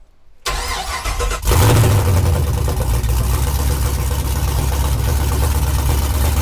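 Chevrolet LS3 6.2-litre V8 cranking on the starter for about a second, then catching about one and a half seconds in and running steadily: its first start after the engine swap.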